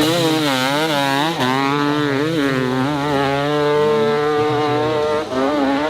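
Dirt bike engine revving hard under load on a steep hill climb, its pitch rising and falling quickly with the throttle, with a brief dip about five seconds in.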